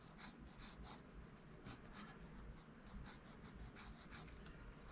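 Pencil sketching on paper: many quick, faint strokes in a row.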